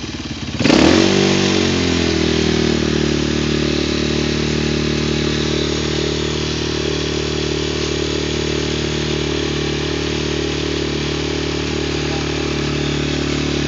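Child's small motorcycle engine surging briefly about half a second in, its pitch then dropping and settling to a steady, constant-speed running note.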